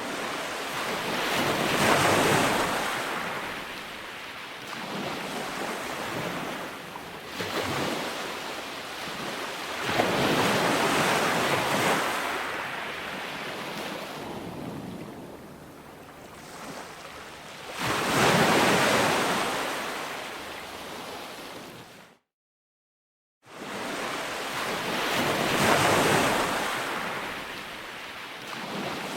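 Calm ocean waves breaking on a beach and washing back, one wave swelling and fading about every eight seconds. The sound cuts out completely for about a second two-thirds of the way through.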